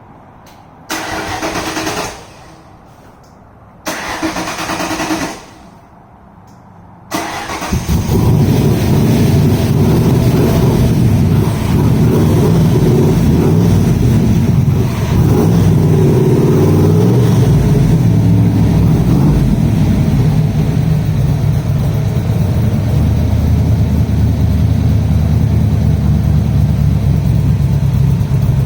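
Engine cold-started after sitting about five days: two short bursts of cranking that don't catch, then a third that catches about eight seconds in. The engine then runs steadily.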